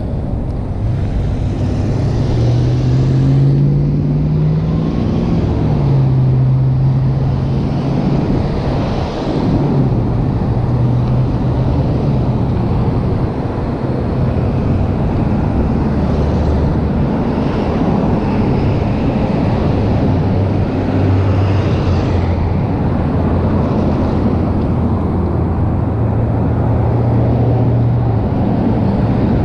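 Bicycle riding noise on the action camera's microphone: a dense low rumble of wind and tyres, with a low hum that steps up and down in pitch.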